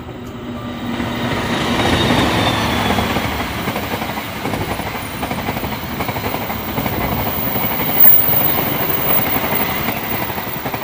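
Diesel-hauled passenger train passing close by: the locomotive's noise builds to a peak about two seconds in, then the coaches roll past in a steady rush. There is a sharp, louder knock about eight seconds in.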